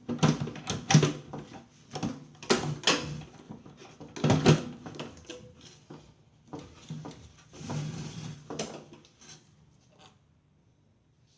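Handling noises: irregular knocks, scrapes and rattles of objects being moved and set down, stopping about ten seconds in.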